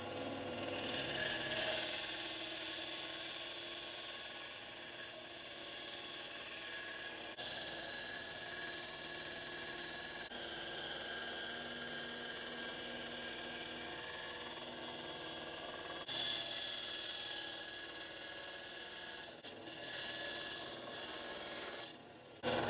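A power tool running steadily on steel, a continuous grinding noise with a faint motor whine, swelling louder briefly twice in the latter part.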